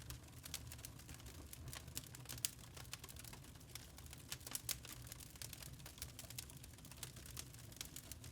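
Wood fire crackling in a fireplace: irregular sharp pops and snaps over a low, soft rumble of the burning logs.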